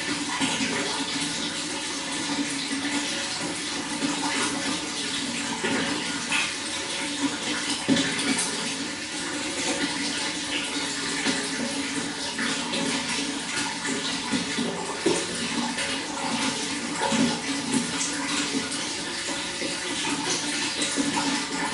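Running water flowing steadily, a continuous rush full of small splashes.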